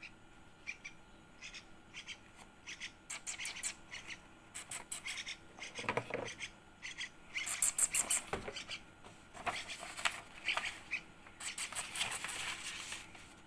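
Yellow-vented bulbul nestling giving rapid, high-pitched begging cheeps while being fed, in short runs with louder, denser bursts about halfway and near the end.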